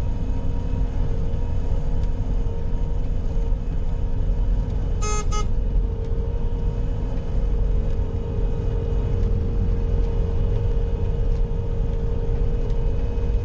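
Bobcat skid steer's diesel engine running steadily, with two short beeps about five seconds in.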